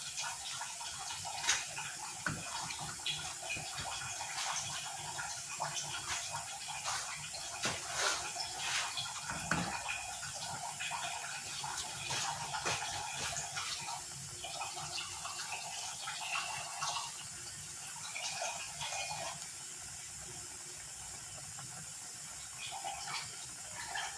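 A pot of chicken stewing in coconut milk bubbling at a boil with the lid off: a steady bubbling with many small pops, easing slightly in the second half.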